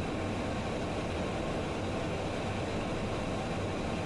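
Steady cockpit noise of a business jet on final approach: an even rush of airflow with a low engine hum underneath.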